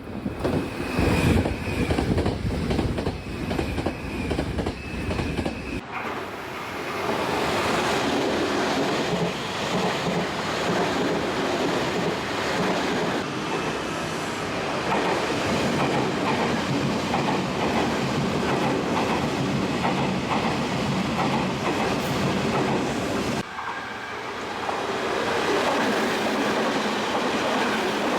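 Nankai 8300 series electric train running on rails, its wheels clacking rhythmically over the rail joints with a heavy rumble. A high tone comes and goes in the first few seconds. About six seconds in, the sound changes abruptly to a steadier rushing running noise, and shifts again near the end.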